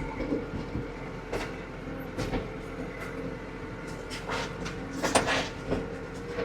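Tractor engine running steadily, heard from inside the cab, with several short knocks and rattles scattered over it.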